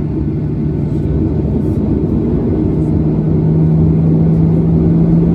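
Boeing 737-800's CFM56 engines heard from inside the cabin: a steady rumble with a low hum that rises slightly in pitch and grows louder about three seconds in, as the engines spool up.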